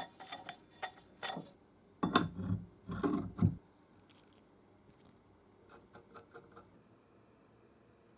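Beverly Shear model B1 throatless shear cutting sheet metal: a few clicks, then a cluster of loud crunching cuts about two seconds in, fading to faint ticks.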